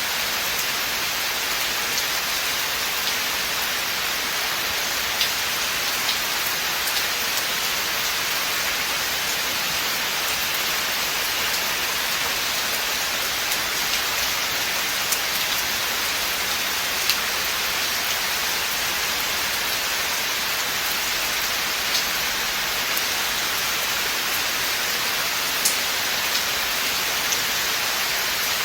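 Steady rain falling in a forest: an even, dense hiss with scattered sharper drop ticks now and then.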